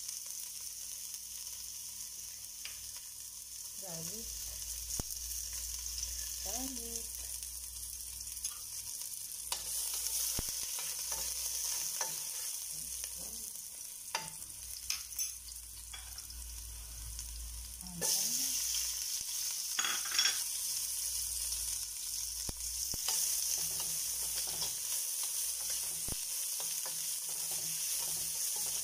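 Chopped garlic sizzling in olive oil in a stainless steel pan, with a utensil scraping and clicking against the metal as it is stirred. The sizzle gets louder twice, about a third of the way in and again a little past halfway.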